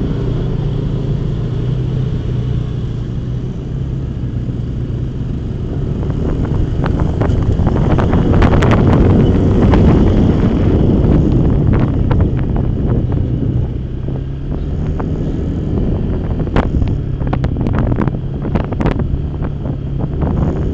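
Motorcycle engine running steadily while riding, with wind rushing over the microphone. It gets louder for a few seconds in the middle, and a scattering of sharp clicks or knocks comes through twice.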